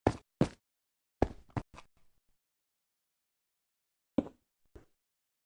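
A series of short, sharp knocks in irregular groups: two quick ones at the start, three about a second later, and two more near the end.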